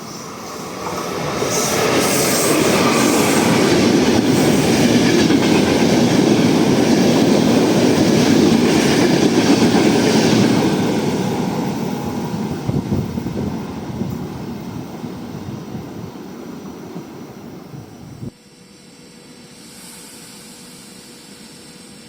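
A train passing by: the noise rises over about two seconds, holds at its loudest for about eight, then fades away. It cuts off suddenly a few seconds before the end, leaving a quieter steady noise.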